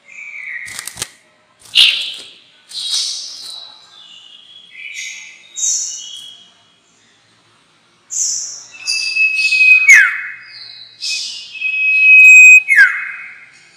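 A sirtu, a small Indonesian songbird, singing as a lure call: a fast series of sharp high chirps and whistled notes. After a short pause about halfway through come louder phrases, with held whistles that break into quick downward sweeps twice near the end.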